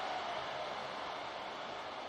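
Steady stadium crowd noise, an even hiss of many voices with no single sound standing out.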